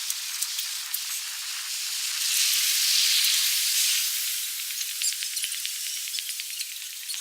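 Heavy rain hissing steadily, swelling a little in the middle, with many short sharp ticks from about halfway through.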